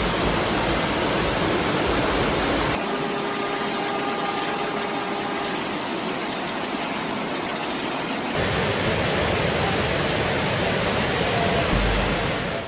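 Rushing floodwater: a steady noisy roar that changes character abruptly about three seconds in and again about eight seconds in.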